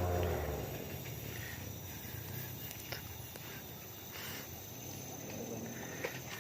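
Faint outdoor ambience with insects buzzing steadily in the background. A low hum dies away in the first half second, and there are a few faint clicks.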